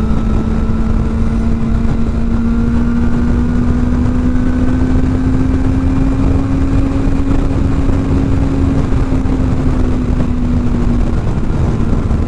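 Kawasaki ZX-4R's inline-four with a new aftermarket exhaust, running at a steady cruise over heavy wind noise. Its pitch holds high and creeps up a little, then eases off briefly near the end.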